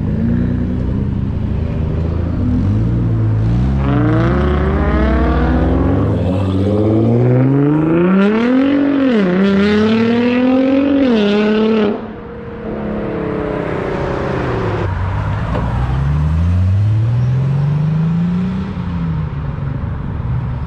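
Car engine revving: its pitch climbs and falls in several long sweeps, with a sudden drop about twelve seconds in, then climbs again near the end.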